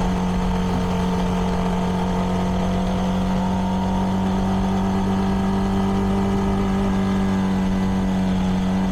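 CFMoto 300NK's single-cylinder engine running through its stock exhaust at a steady engine speed while the motorcycle rides along, an even drone with no change in pitch.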